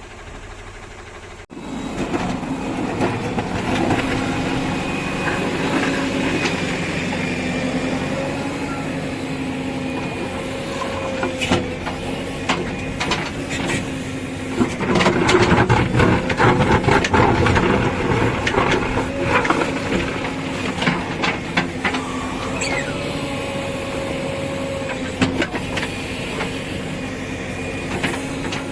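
Heavy diesel engine running steadily, cutting in abruptly about a second and a half in. A run of metallic clanks and knocks comes about halfway through.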